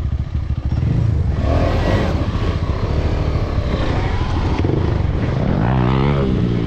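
Motorcycle engine running steadily, with a low even hum and a spell of rushing noise over it in the middle.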